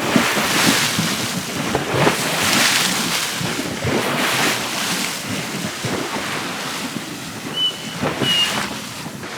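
Waves slapping and splashing against a dock in repeated surges, with wind buffeting the microphone. Near the end come two brief high whines, the dog crying at the waves.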